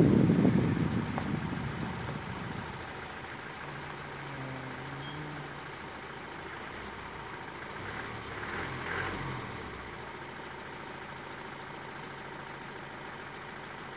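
Car engine idling steadily. A louder rush of driving noise fades out over the first two seconds as the car comes to a stop, and faint low hums come in briefly twice around the middle.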